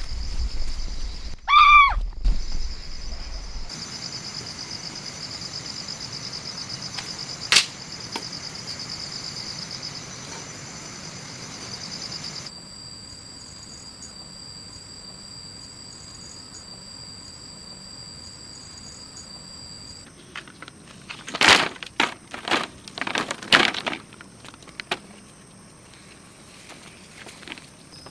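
Insects trilling steadily at a high pitch, with a short rising-and-falling call about two seconds in, a single sharp click near eight seconds, and a quick run of loud knocks a little past twenty seconds.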